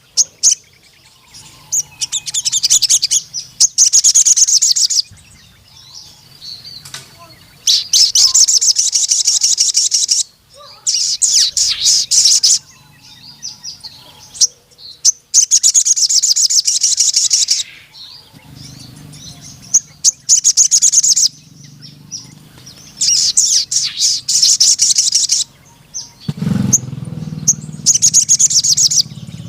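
A sogon sunbird singing long bursts of rapid, high, chattering trills, about seven bursts with short pauses between them. A low hum comes in about two-thirds of the way through and grows louder near the end.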